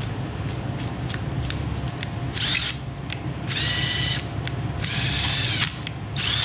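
Electric impact driver spinning a thread chaser in and out of a bolt hole to clear out paint and carbon. The tool runs in about four short bursts, its motor whine rising as it spins up and falling as it stops.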